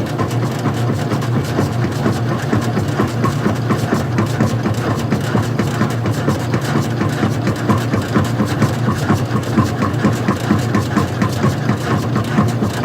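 Old-style front-loading washing machine running: a steady low motor hum with a continuous fine rattling and ticking from the mechanism.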